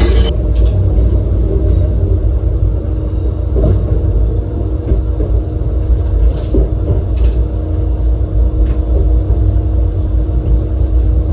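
Diesel railcar running with a steady low engine rumble and hum, with a few faint clicks now and then.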